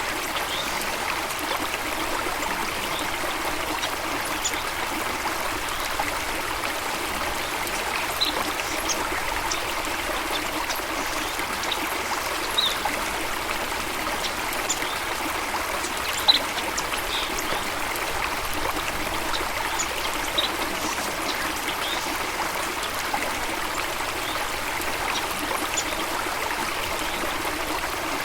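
Water running steadily in a stream or small waterfall, an even rushing flow, with scattered brief high ticks over it and two slightly louder ones, about twelve and sixteen seconds in.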